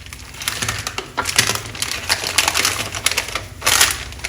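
Butter paper crinkling and rustling as it is wrapped around a filled porotta roll, with a louder rustle about three and a half seconds in.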